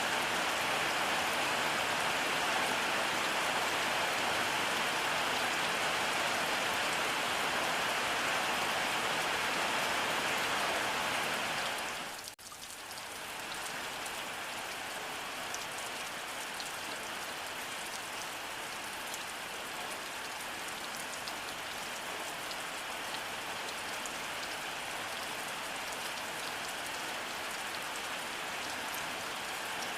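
Steady rainfall. About twelve seconds in it drops out for an instant and comes back a little quieter, with more separate drops pattering.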